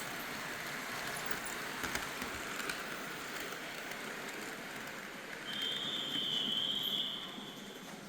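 Märklin model trains running on the layout: a steady rattling rumble of wheels on track with a few sharp clicks in the first few seconds. A high, steady whistle tone sounds for about two seconds past the middle.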